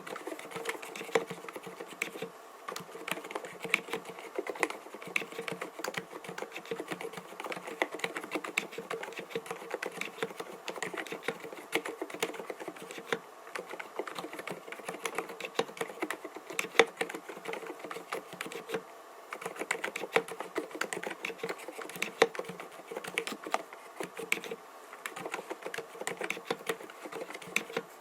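Continuous fast typing on an mStone Groove T 87A mechanical keyboard with silent Milky 45 g linear switches: a steady stream of soft, muted keystroke clacks, with brief pauses a couple of times.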